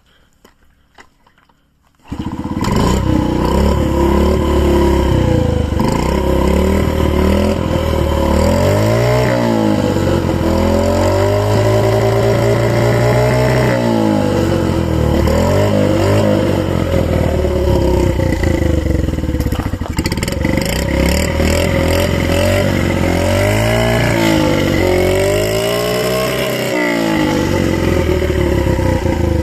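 Honda Z50J Monkey's 50cc four-stroke single-cylinder engine catching suddenly about two seconds in, then running with repeated blips of the throttle, its pitch rising and falling back to idle several times.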